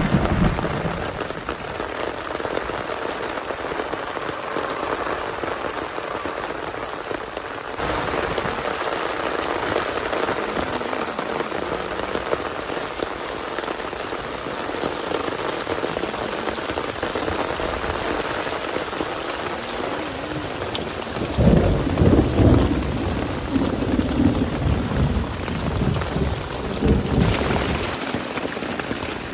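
Steady rain falling, with a spell of low rumbling about two-thirds of the way in.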